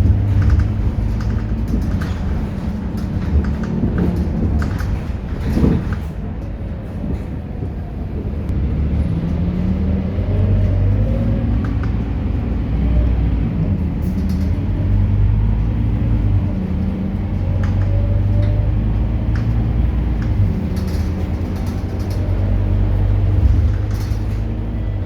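Scania K230UB city bus running on the road, its diesel engine humming with the pitch rising and falling several times as it speeds up and eases off. A single knock about six seconds in.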